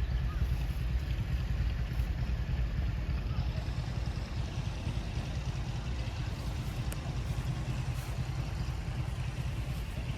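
An engine running steadily, a low pulsing sound with no clear change.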